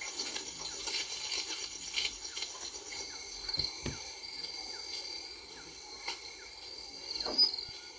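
Outdoor wildlife ambience: steady high insect trilling, with short falling chirps repeating about twice a second and a brief louder call near the end.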